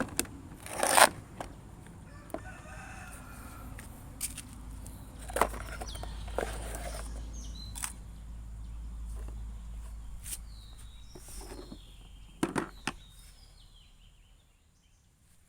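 A rooster crowing and chickens calling in the background, with a few sharp clicks and knocks from tool parts being handled.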